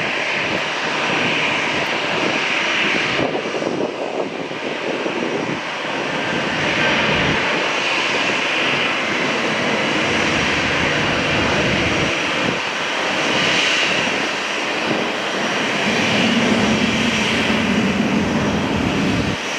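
Jet noise from an Airbus A320's two CFM56-5B turbofan engines: a loud, continuous rush that swells and eases in level, with a low hum rising briefly near the end.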